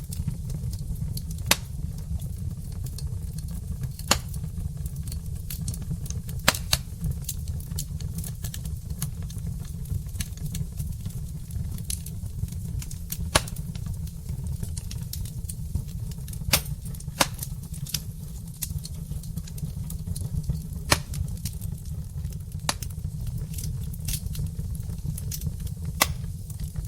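Wood fire burning in a fireplace: logs crackling, with a sharp pop every few seconds over a steady low rumble.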